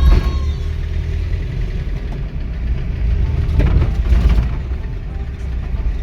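Truck engine idling with a steady low rumble, and a louder swell of noise about four seconds in.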